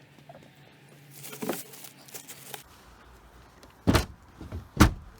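A low steady hum that stops about two and a half seconds in, a short rustle before it, then two heavy thumps just under a second apart.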